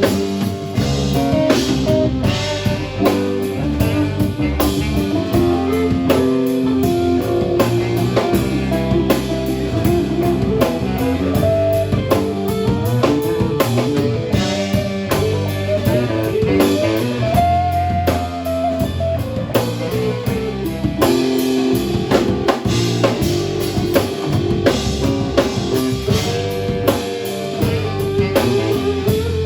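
Live rock band playing an instrumental passage: a guitar carries the melody over bass and a drum kit keeping a steady beat.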